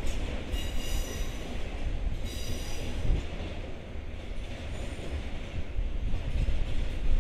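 Freight train rolling past with a steady low rumble of wheels on rail and high-pitched wheel squeal, twice in the first three seconds.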